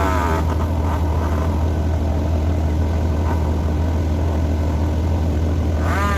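A heavy engine running steadily with a deep, even drone, with a brief rising and falling pitched sound right at the start and again near the end.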